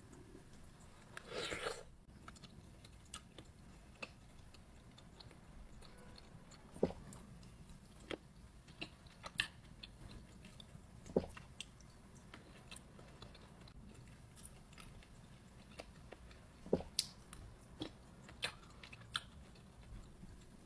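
Close-miked chewing and biting of fresh fruit: scattered soft, wet clicks and smacks, with a brief noisier crunch about a second and a half in.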